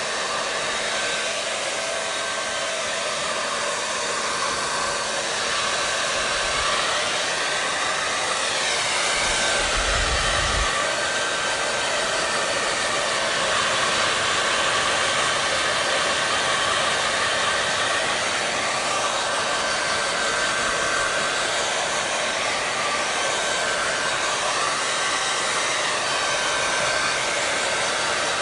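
Hair dryer blowing steadily: an even rush of air with a constant motor whine. Now and then the rush sweeps slowly up and down in pitch, and there is a short low rumble about ten seconds in.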